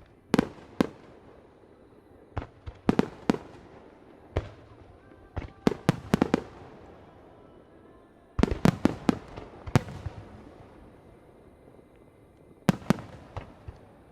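Fireworks display: aerial shells bursting in sharp bangs that come in irregular clusters, several in quick succession at a time, each followed by a rolling, echoing rumble.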